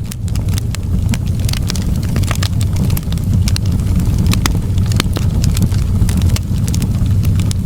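Wood fire in a fireplace crackling: frequent, irregular sharp pops and snaps over a steady low rumble of the flames.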